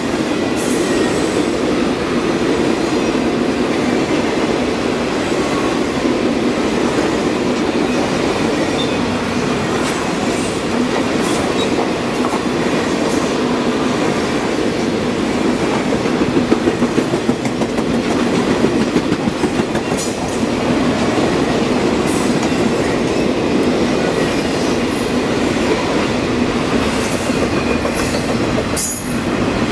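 Ringling Bros circus train's cars rolling past on the rails: a steady, loud wheel-on-rail rumble with scattered sharp clicks and knocks throughout.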